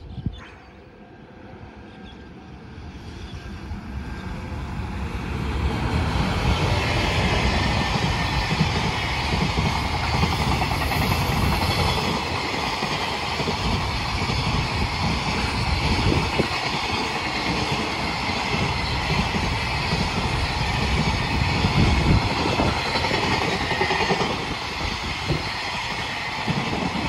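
A train approaching, growing louder over about the first six seconds, then running past steadily on the rails.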